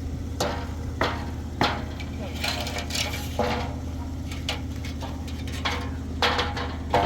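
An engine running steadily, with sharp knocks and scrapes every second or so and a few short shouts over it.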